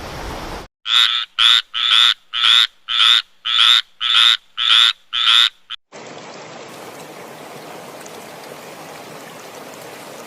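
An animal calling in a quick, even series of about nine short calls, roughly two a second. After the calls stop, a steady hiss takes over.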